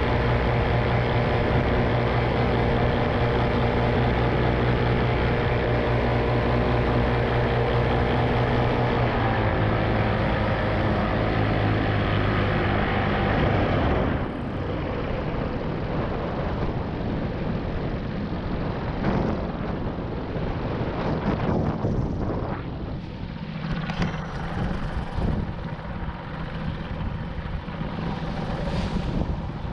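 Small propeller aircraft engine running steadily under power, easing down slightly about a third of the way in, then throttled back about halfway through. After that, gusty wind noise buffets the microphone over a low engine idle during a landing in strong wind.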